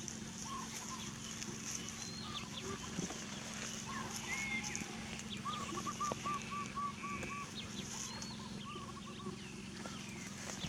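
Outdoor ambience with short chirping animal calls, including a quick run of repeated notes about halfway through, over a steady high hiss and a low hum.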